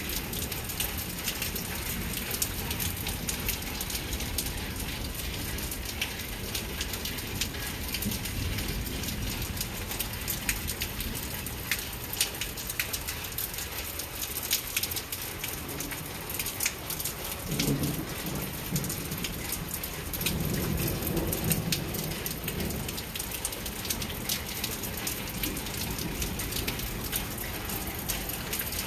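Heavy thunderstorm rain falling steadily, with many sharp individual drops striking a surface close by. A low rumble of thunder comes in about two-thirds of the way through.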